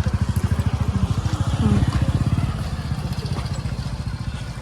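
A vehicle engine running close by, a rapid, even low throb that swells about two seconds in and then eases off a little.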